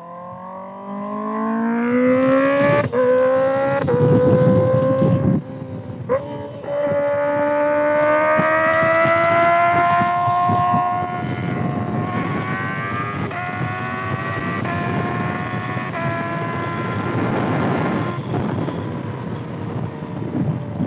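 Kawasaki ZX-6R's inline-four engine through a loud exhaust, accelerating through the gears: the pitch climbs, breaks and drops at each upshift, then settles into a steadier pull with a few small steps. A rushing noise runs underneath.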